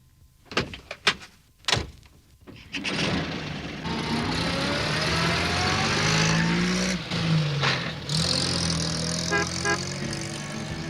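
A few short knocks, then a small van's engine starting up and running as the van pulls away, its pitch rising as it speeds up.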